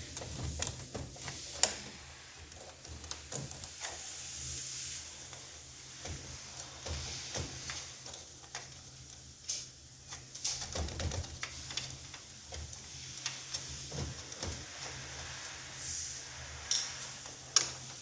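Scattered light clicks and taps of hands working on a copier's drive gear assembly, prying the retaining clip off an electromagnetic clutch, with a faint steady low hum underneath.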